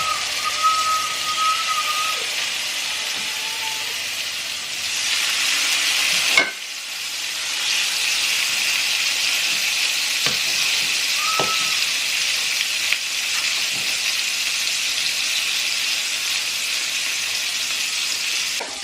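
Pieces of turmeric-marinated mirga fish shallow frying in hot oil in a pan, sizzling steadily. A sharp knock sounds about six seconds in.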